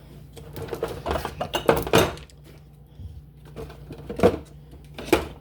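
Jars and food containers knocking and clicking as they are handled and set down, a few sharp knocks spread irregularly, with a steady low hum underneath.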